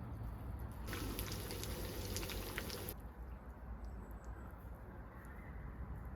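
Liquid pouring for about two seconds: a rushing hiss that starts about a second in and stops abruptly, over a steady low rumble.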